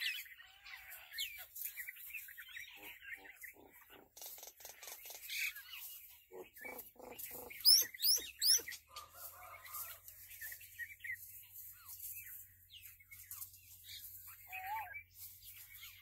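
Small songbirds chirping and twittering, with runs of quick repeated notes and, about eight seconds in, a loud cluster of sharp, high rising calls. A faint low steady hum comes in about then.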